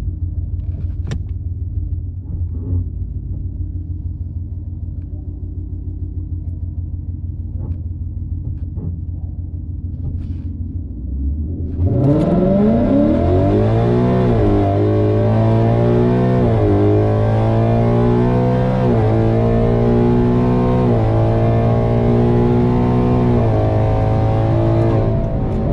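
Ford Mustang GT's 5.0 V8 with full exhaust, held at a low steady rumble, then about twelve seconds in launching hard and revving up through the 10-speed automatic's gears, the pitch climbing and dropping back at each of about five quick upshifts. The throttle comes off near the end.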